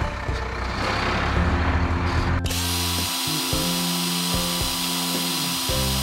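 Cartoon sound effect of an excavator's hydraulic breaker hammering rock: a rapid drill-like rattle that stops about two and a half seconds in. Background music plays throughout.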